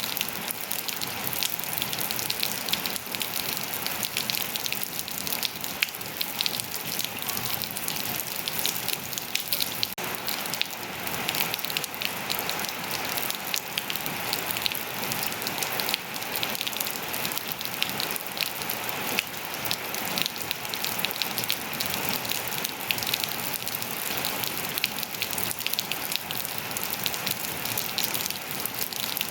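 Steady rain falling on hard surfaces and foliage: a continuous hiss with dense individual drop patters throughout.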